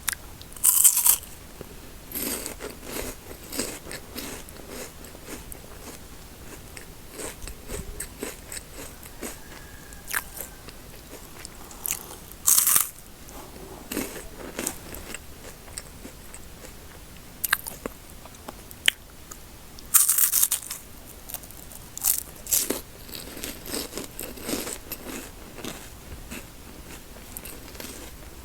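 Close-miked eating of chocolate snacks: a few loud crisp crunching bites with softer chewing and crackling between them.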